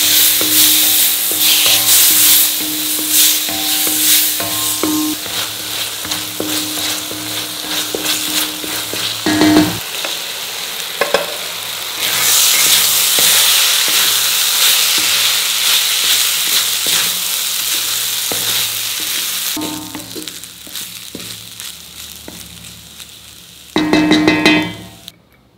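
Tomato-onion masala sizzling in a steel kadai while a spatula stirs and scrapes the pan. About halfway through, cooked rice is tossed through the masala with the spatula, and the sizzle dies down over the last few seconds.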